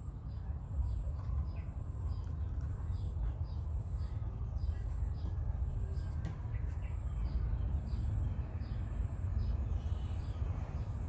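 Small birds chirping over and over in short falling notes, about two a second, over a steady low rumble and a constant faint high whine.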